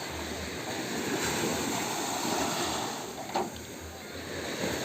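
Sea water washing and lapping, with wind buffeting the microphone in low gusts, and one short sharp knock about three seconds in.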